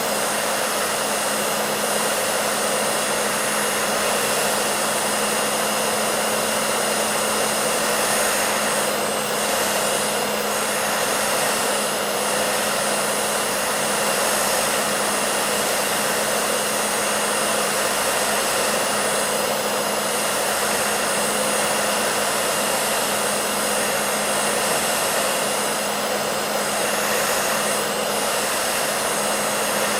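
Hair dryer running steadily: an even rush of air over a constant motor hum.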